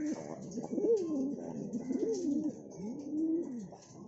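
Domestic pigeons cooing: a string of low coos that rise and fall, about one a second.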